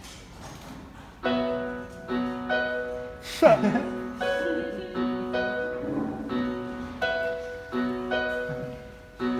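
Piano-sounding keyboard chords start about a second in and are struck in a steady repeating rhythm as a song's intro. About three and a half seconds in, a brief loud voice slides down in pitch over the chords.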